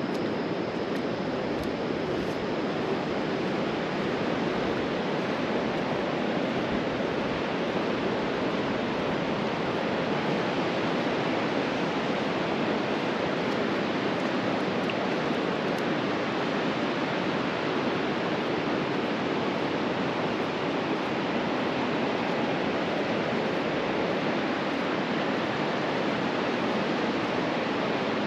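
Ocean surf washing onto the beach, heard as a steady, even rush with no distinct breaking waves.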